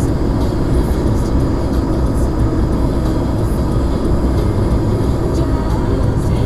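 Blizzard wind buffeting the microphone: a loud, steady rumbling noise.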